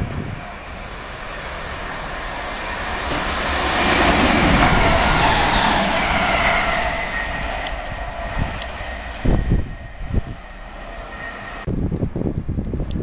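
Greater Anglia electric multiple unit running through the station at speed. A rushing rail noise builds to a peak about four to six seconds in, with a whine that falls in pitch as the train passes, then fades away. Low gusts of wind buffet the microphone near the end.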